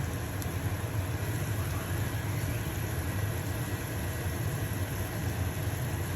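Stove-top range hood fan running with a steady low hum, over the soft, even sizzle of a pancake frying in a pan.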